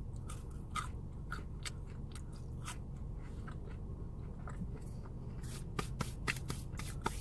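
Close-up chewing and biting of food, with many small wet crackling clicks that come thicker near the end, over a low steady hum.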